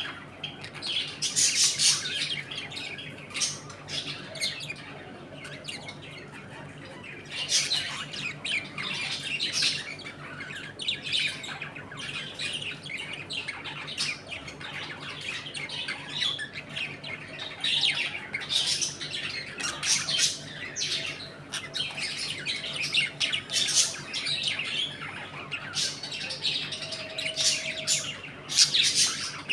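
A flock of budgerigars chattering, chirping and squawking almost without pause, dropping off briefly a few seconds in before picking up again.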